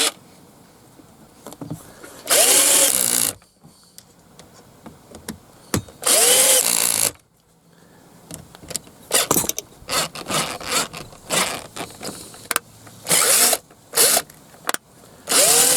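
Power drill driving screws set to high torque, in four short runs of about a second each, its motor pitch rising and falling with each run. Clicks and taps come between the runs as the screws are handled and set.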